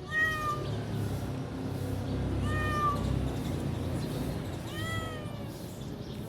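Domestic cat meowing three times, about two seconds apart.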